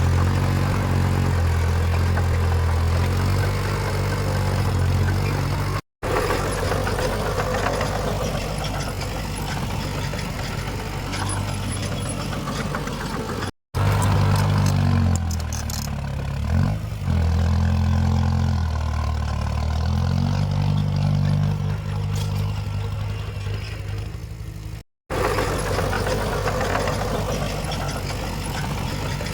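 Heavy diesel engine of earthmoving machinery running, its pitch and load rising and falling, broken by three brief gaps of silence.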